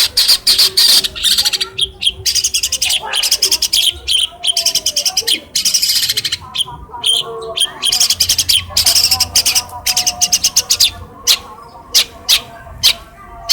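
Long-tailed shrike (pentet) singing fast runs of sharp, high chattering notes, imitating other birds' calls. The notes break off briefly midway and come more sparsely near the end.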